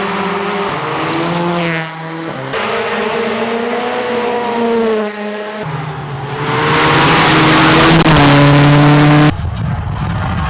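Rally car engines at high revs on a stage, their pitch climbing and dropping with gear changes, with several abrupt jumps between cars. The loudest stretch, in the second half, is a car passing close with a rush of noise over the engine.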